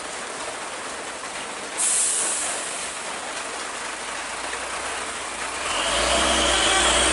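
A heavy truck on a steep climb: a short, loud hiss of released air from its air brakes about two seconds in, over a steady background hiss. Near the end the diesel engine rumbles in, growing louder.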